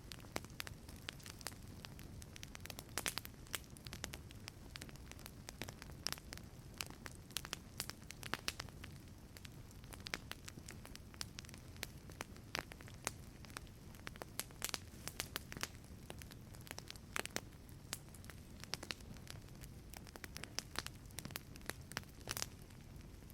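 Wood fire crackling in a fireplace: irregular sharp pops and snaps over a soft low rumble of the burning logs.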